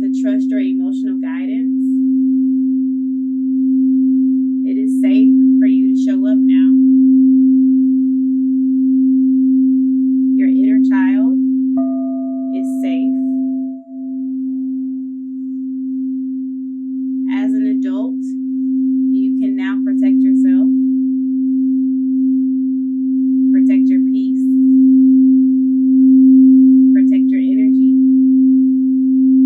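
Singing bowl sounding one steady, sustained low tone with faint overtones, held continuously for a root chakra sound healing session. The tone dips briefly about halfway through and then swells again.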